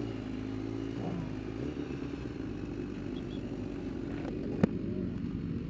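Race motorcycle engines idling steadily on the starting grid, with one sharp click a little after the middle.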